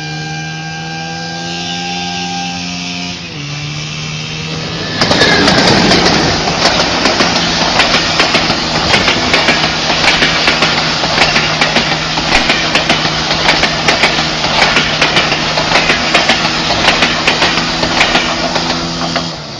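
Motorcycle engine running steadily, dropping in pitch about three seconds in. About five seconds in, a much louder rough, crackling noise starts over it and lasts until near the end.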